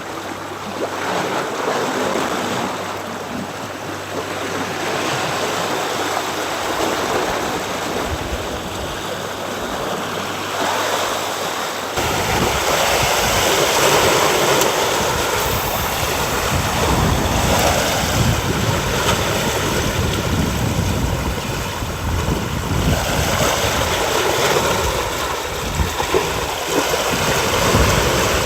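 Sea water swirling and waves washing against a rocky shore, a steady surf hiss. About twelve seconds in, a louder low rumble joins it.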